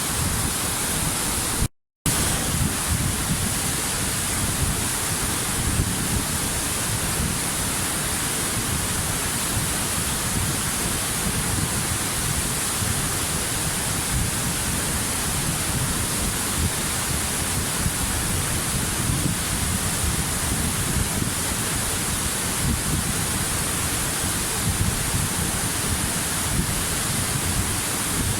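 Waterfall: a steady, even rush of falling water. About two seconds in, the sound cuts out completely for a fraction of a second and then resumes.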